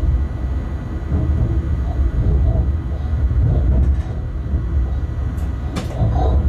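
Train running, heard from inside the cab of a Bombardier TRAXX class 186 electric locomotive: a steady low rumble, with one sharp knock near the end.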